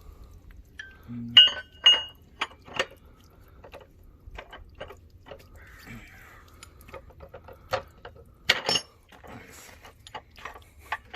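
Scattered hard clinks and knocks of broken geode rock pieces being handled and knocked against each other. The loudest knocks come in the first three seconds and again about eight and a half seconds in.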